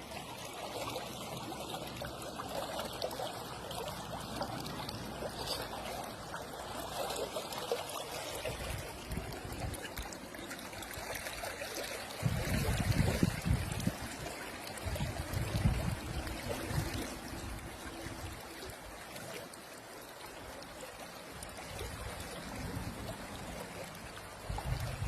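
Running water trickling steadily, like a small stream, with low rumbling bursts from about halfway through.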